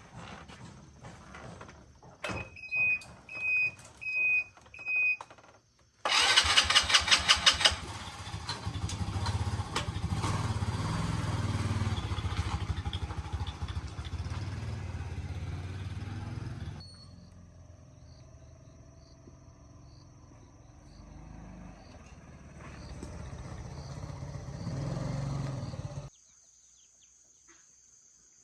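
Four short high beeps, then a small engine starts with a sudden burst of fast pulsing and runs steadily. It drops to a lower level about halfway through, swells again, and cuts off abruptly near the end.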